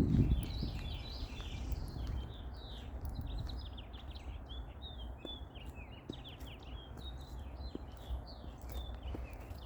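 Small birds chirping and twittering, many short quick calls overlapping, over a low steady rumble.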